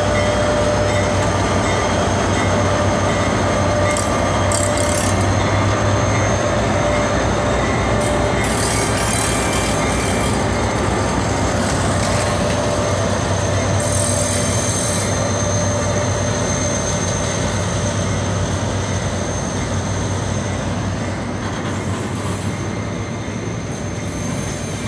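Freight train passing close by at low speed: a diesel locomotive's engine drone at first, which weakens after about twelve seconds as loaded hopper and gondola wagons roll past with wheels grinding on the rails and a thin squeal.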